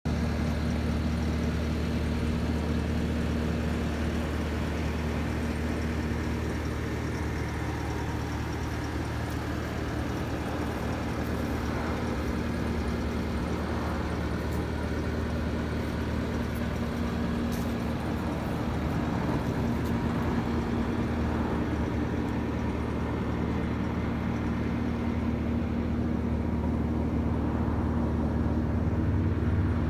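Skid steer engine running at a steady speed, a constant low hum that stays even throughout.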